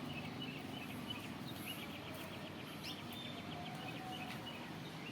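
A bird calling in a rapid series of short repeated high notes, chattering for about two seconds near the middle, over a steady low background rumble.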